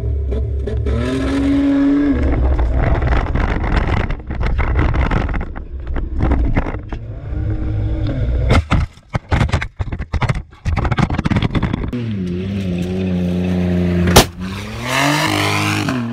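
Ford Escape engine revving hard as the SUV accelerates over rough ground, with rattles and knocks from the jolting body. About fourteen seconds in there is one sharp, loud bang, then the engine races up and down.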